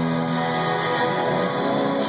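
Live band music with guitar and held notes.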